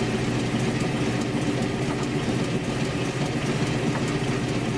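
South Bend metal lathe running steadily with a low, even hum from its motor and belt drive.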